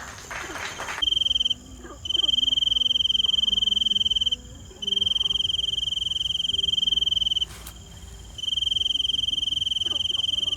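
Cricket trilling at a steady high pitch in long bursts of two to three seconds with short pauses between.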